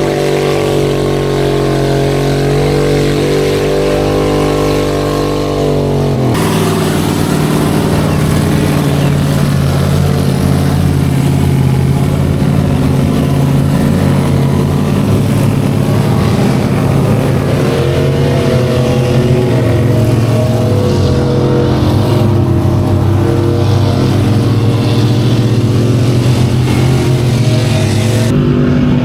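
Big mega truck engines running and revving in mud. The engine sound changes abruptly about six seconds in and again near the end, and rises in pitch for a moment around the middle.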